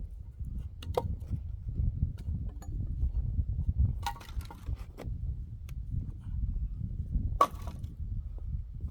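Three axe strikes splitting firewood by hand, sharp blows about three seconds apart, over a steady low rumble.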